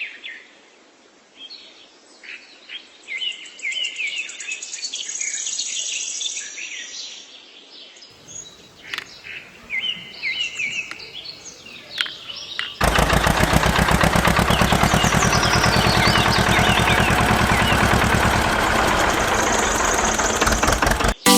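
Birds chirping and twittering. About thirteen seconds in, a loud, steady, fast mechanical rattle starts and drowns them out.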